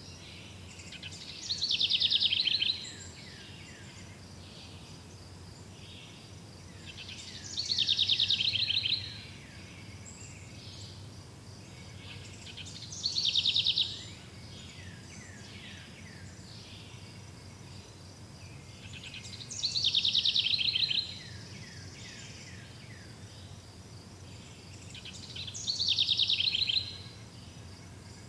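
A songbird repeating the same short song five times, about every six seconds: each phrase is a quick run of falling notes that speeds into a dense trill. Underneath is a steady faint forest hiss with soft insect-like chirping.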